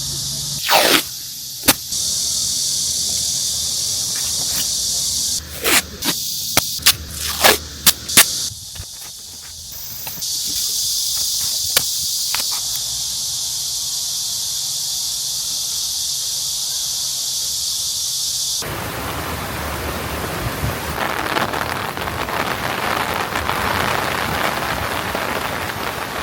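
Insects droning in a steady high-pitched band, with a handful of sharp knocks and clicks in the first eight seconds or so. About two-thirds of the way through, a steady rushing noise takes over.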